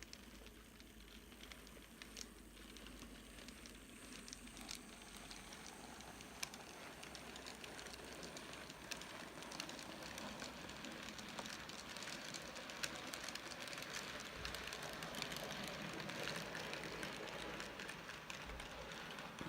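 N gauge model steam train running along the track, a steady hiss of motor and wheels with scattered clicks, growing gradually louder as it comes closer.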